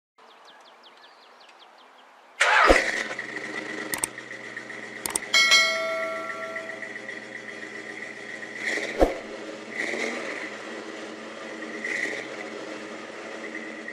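A car engine starts with a sudden loud burst about two and a half seconds in, then runs steadily at idle. A few sharp knocks and a short pitched tone come over it.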